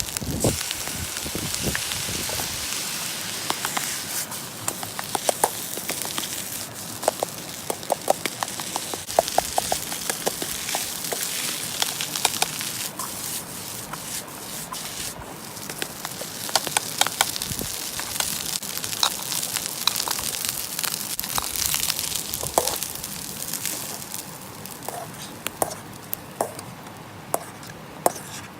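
Food sizzling in a cast-iron skillet over a campfire, with frequent sharp clicks and taps. The sizzle dies down over the last few seconds.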